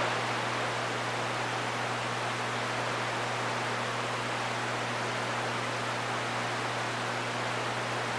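CB radio receiver hissing with static between transmissions, steady throughout, over a constant low hum.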